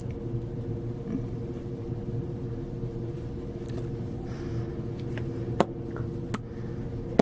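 Room tone: a steady low electrical or ventilation hum, with two sharp clicks near the end.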